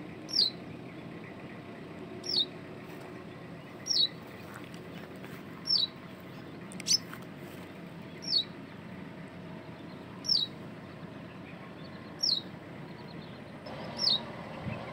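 A bird repeating one short, high, falling note roughly every two seconds, over a steady low background hiss.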